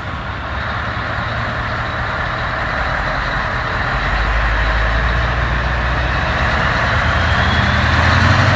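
Scania 143H 500 truck's V8 diesel engine running, slowly growing louder, with a heavy low note that strengthens about halfway through. The sound is rough and thin, recorded on a phone.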